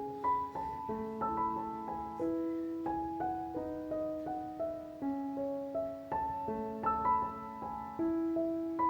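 Soft background piano music: a gentle melody of single notes struck a few times a second and left to ring.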